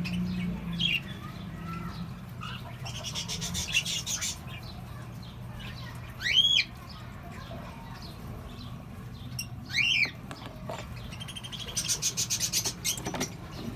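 Cockatiels calling: two loud rising-and-falling whistled calls about three and a half seconds apart, with bursts of fast raspy chatter before them and again near the end.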